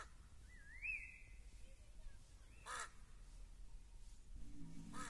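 Faint bird calls: three short crow-like caws about two and a half seconds apart, the first at the start and the last at the end, with a short rising whistled note from another bird about a second in.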